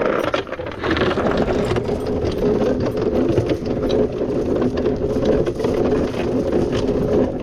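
A boat's engine running steadily, its tone holding even.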